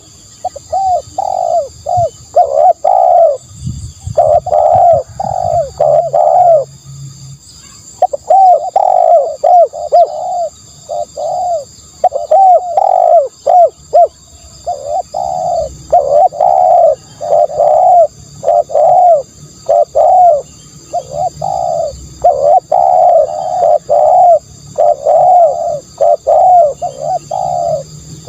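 Spotted dove cooing: phrase after phrase of quick, repeated low coos, with a short pause about six and a half seconds in.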